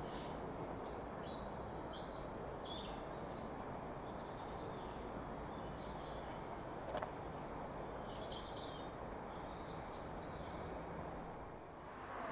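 Outdoor ambience: birds chirping in two short spells over a steady low background noise, with a single click about seven seconds in.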